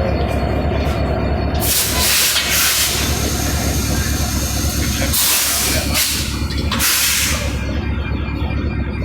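Diesel locomotive idling with a steady low rumble while compressed air hisses out loudly in three bursts, about two, five and seven seconds in.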